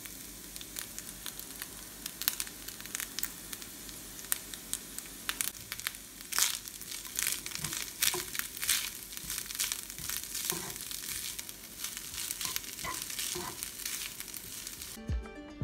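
Rice and vegetables sizzling in a hot frying pan while a wooden spatula stirs and scrapes them, giving many short scraping clicks over a steady hiss. Music comes in near the end.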